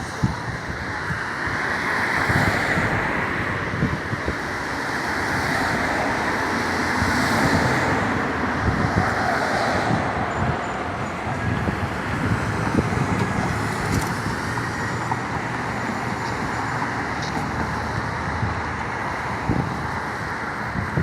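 Road traffic noise: a steady rush of vehicles and tyres with low rumble, swelling a couple of times as vehicles pass.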